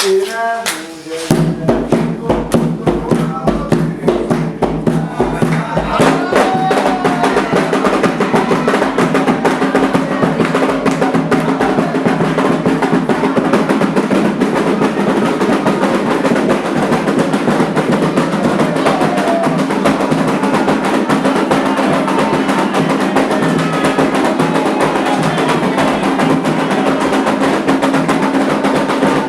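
Candomblé atabaque drums playing a fast, dense rhythm. They come in with a few separate strokes and are in full rhythm after about a second, with voices faintly heard over them.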